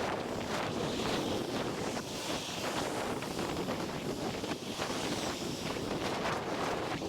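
Steady, gusting wind noise on the microphone of a camera carried on a moving bicycle.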